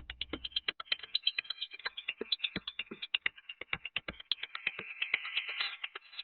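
Rapid, irregular clicking and tapping of small hand tools working on a phone's plastic and metal parts during a screen replacement.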